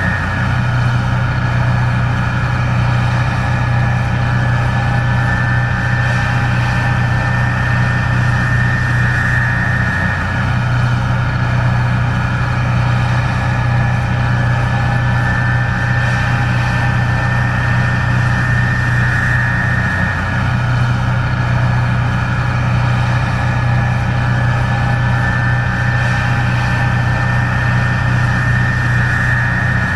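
Case IH 1660 Axial-Flow combine running steadily while harvesting corn: a loud low engine drone with a high whine that swells and fades. The drone dips briefly about every ten seconds.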